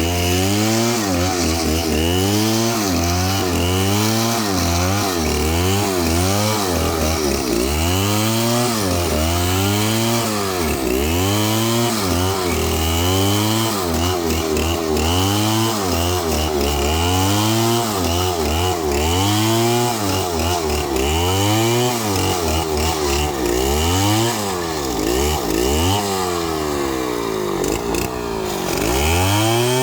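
Two-stroke Stihl chainsaw cutting into a palm trunk, its engine revving up and dropping back over and over, about once every two seconds.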